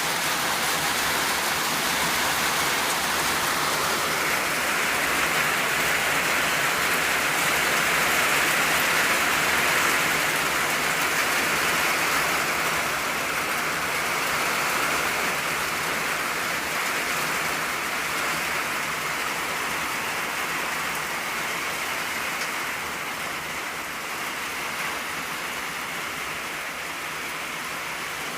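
Steady rain drumming on an old tin roof: a dense, even patter that swells a little a few seconds in and eases slightly toward the end.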